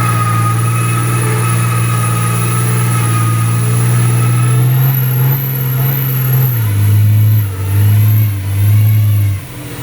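A vehicle engine running steadily with a low hum. Near the end its pitch drops slightly and it rises and falls in three short surges.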